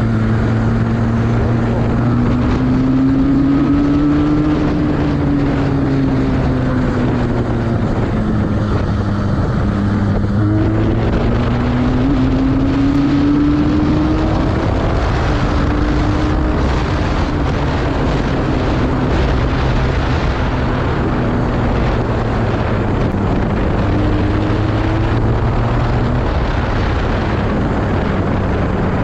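Benelli 302R's inline two-cylinder engine on its stock exhaust running under way, its revs rising and falling several times, with wind noise on the microphone.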